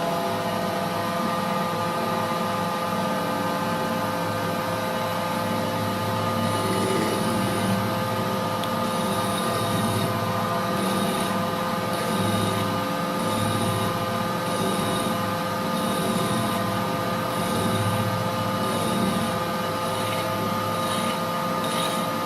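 Holbrook C8 toolroom lathe running steadily, its gearing giving a constant whine over a low rumble. From about six seconds in, a faint high hiss comes and goes roughly once a second.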